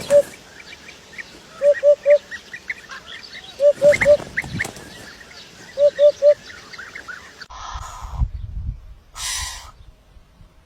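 A bird gives short low calls in sets of three, about every two seconds, over a background of many small birds chirping. After about seven and a half seconds this gives way to two bursts of noise.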